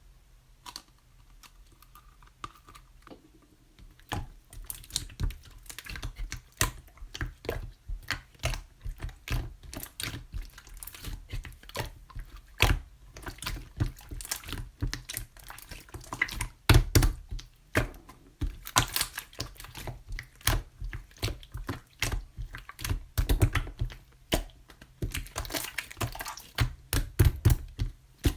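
Clear slime being squeezed and kneaded by hand, giving rapid, irregular clicking and popping sounds that start about four seconds in.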